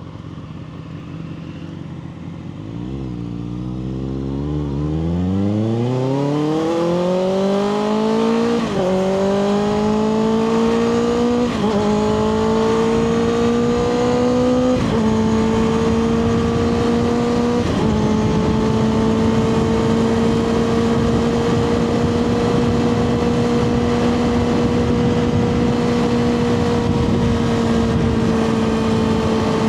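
Kawasaki ZX6R's inline-four sport-bike engine, through a Two Brothers slip-on exhaust, pulling hard from low revs. It is upshifted about four times, the pitch dropping at each shift, then settles into a steady cruise with wind and road noise.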